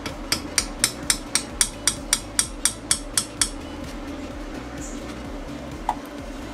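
A quick run of about thirteen sharp metallic clicks, about four a second, stopping after three and a half seconds, then one more click near six seconds.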